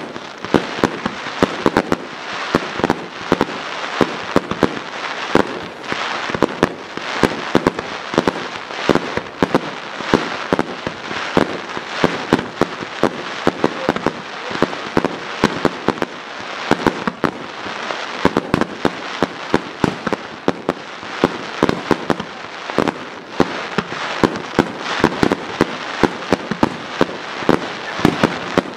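Fireworks display: shells bursting in a continuous barrage of sharp bangs, two or three a second, over a steady crackling hiss.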